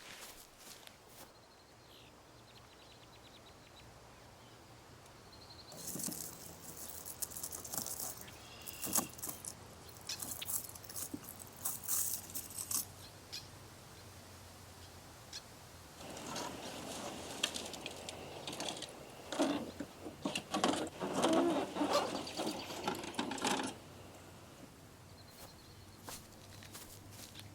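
Camping gear being handled: light clinking and jangling for several seconds, then a longer stretch of rustling and knocking, with quiet forest ambience between.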